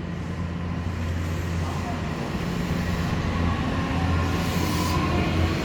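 Odakyu 8000 series electric train approaching, growing steadily louder, with its motor whine rising in pitch over the last couple of seconds as it gathers speed.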